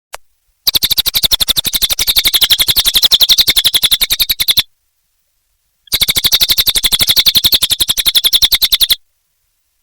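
Cililin bird singing in two long, rapid trills of evenly repeated notes, about a dozen a second, each lasting three to four seconds with a short pause between.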